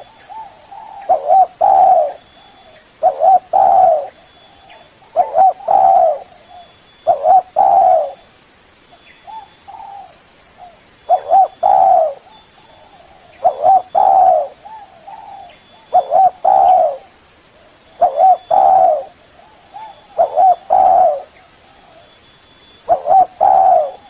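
Spotted dove (Spilopelia chinensis) cooing: loud, repeated short phrases of low coo notes, about one phrase every two seconds, with a brief lull near the middle. A lure-call recording to draw in other doves.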